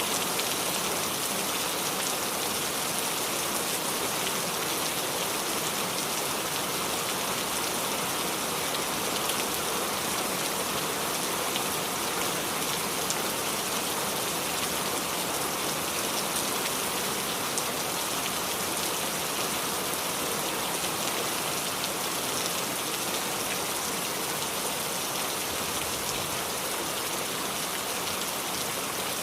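Steady rain falling and dripping onto the leaves of a small tree, an even patter with scattered faint drop ticks.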